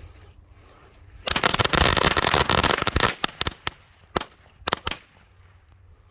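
A string of firecrackers going off in a fire: a rapid rattling volley of sharp bangs for about two seconds, then a handful of scattered single pops.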